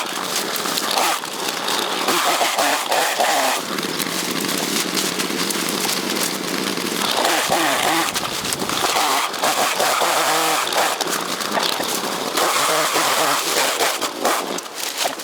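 Chainsaw running at a steady high pitch while cutting bamboo, in stretches, with a brief voice in the middle.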